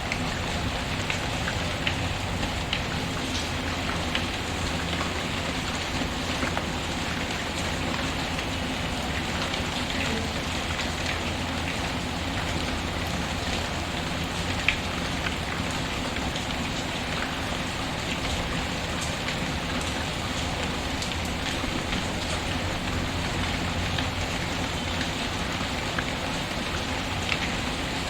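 Steady rain patter mixed with the occasional crackle and pop of a wood fire in a fireplace, with one sharper pop about halfway through.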